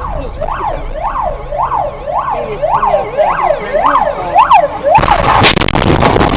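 Emergency vehicle siren on a fast yelp, rising and falling about twice a second. About five seconds in it cuts off abruptly, and loud rushing noise with sharp knocks follows.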